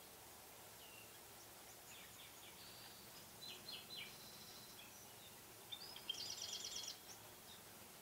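High-pitched bird calls over a quiet marsh background: a few short chirps about two to four seconds in, then a louder rapid trill of chirps about six to seven seconds in.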